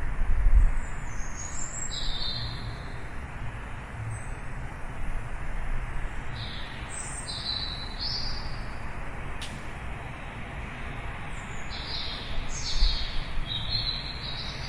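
Small birds chirping in three bursts of short, downward-slurred high notes, over a steady background hiss and low rumble.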